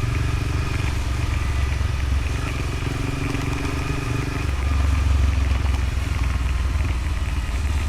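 Motorcycle engine running under way on a dirt road. About halfway through, its note changes: the mid-pitched hum drops out and the low rumble grows stronger.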